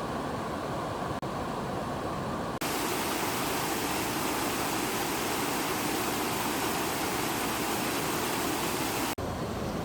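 Steady rush of fast-flowing stream water. It turns louder and hissier about two and a half seconds in, then drops back abruptly near the end.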